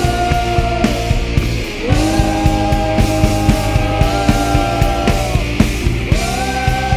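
Worship band playing rock-style music: a steady drum beat under long held notes that slide into pitch twice.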